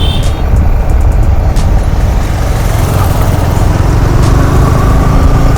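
Loud, steady wind buffeting and engine noise from a moving motorcycle.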